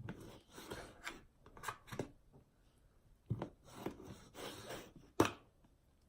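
Thawed raw chicken being cut into pieces: a run of irregular slicing and scraping strokes, with one sharp knock about five seconds in.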